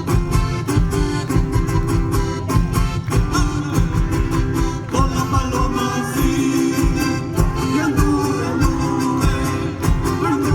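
Live Chilote folk music with a steady beat, and a voice singing over the instruments from about halfway through.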